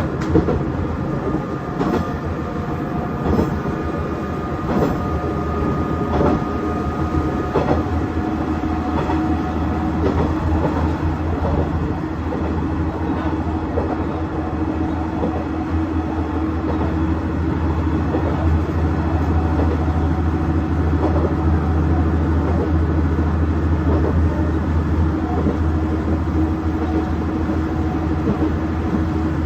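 KiHa 110 series diesel railcar under way: a steady engine and running hum, with a few wheel clicks over rail joints in the first several seconds. The sound grows a little louder in the second half.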